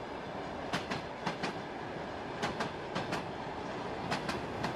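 Passenger train running along the track: a steady rumble with wheels clicking over the rail joints, the clicks often coming in quick pairs.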